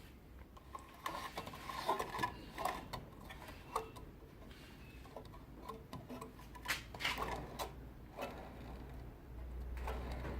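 Ozito 150 mm bench grinder with linishing belt running: a low steady hum with scattered light ticks, a little belt noise but running reasonably smooth. The hum grows stronger near the end.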